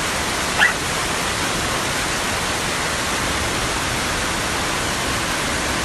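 Steady, loud rush of heavy rain and running storm water, with one brief higher-pitched sound about half a second in.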